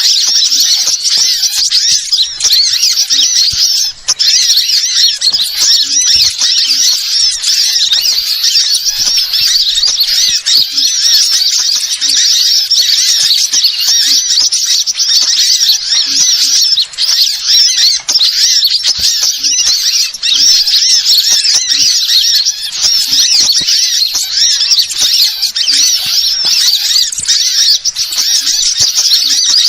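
Dense, continuous high-pitched chirping and twittering of many small birds at once, a bird-lure call recording played to attract wild birds.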